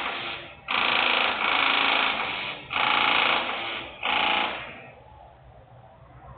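Loud industrial machinery noise coming in repeated bursts of a steady, pitched, buzzy sound, each half a second to a second long, five in a row with short gaps, ending a little before the last second and a half, when only a low background hum remains.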